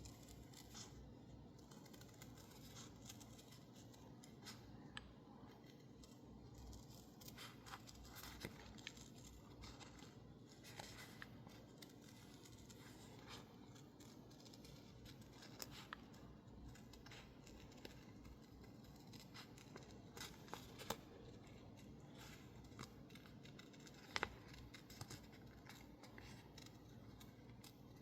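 Faint, irregular snips of scissors cutting out stickers from label paper, with light paper rustling between the cuts.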